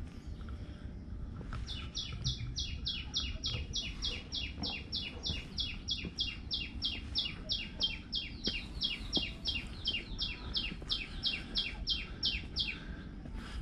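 A bird calling in a long, even series of short notes, each sliding down in pitch, about four a second. It starts about two seconds in and stops shortly before the end.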